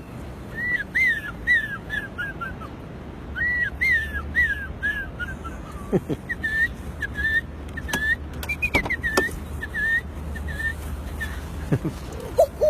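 A person imitating bird calls by mouth: a long string of short chirps, some in quick falling runs, with a few clicks between them.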